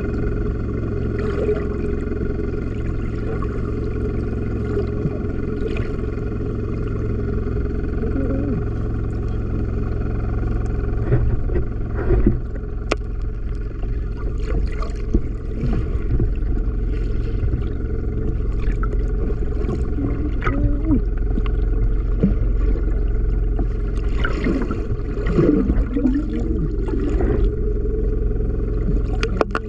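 Motor boat engine running steadily, a constant low drone, with a few knocks near the middle.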